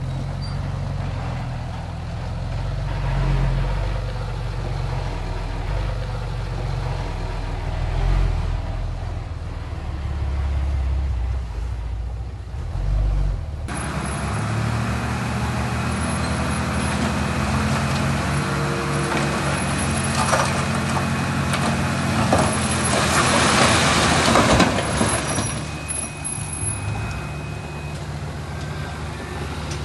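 Heavy diesel earthmoving machinery working. A low, steady engine sound gives way about halfway through to a brighter, noisier engine sound with a thin high tone. A loud, noisy burst comes about three quarters of the way in.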